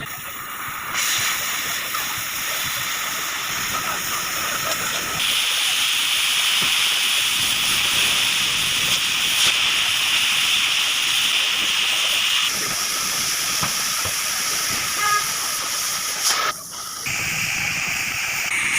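Oxy-fuel gas cutting torch hissing steadily as it cuts steel. It grows brighter and louder for several seconds in the middle, and breaks off briefly near the end.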